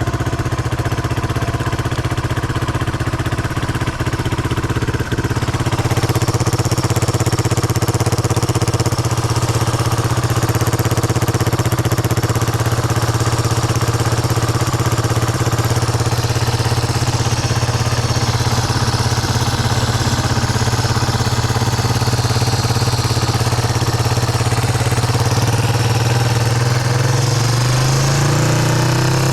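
Yamaha Serow 225W's air-cooled single-cylinder four-stroke engine idling steadily, its pitch starting to rise near the end. The bike has an exhaust leak at the exhaust-manifold joint.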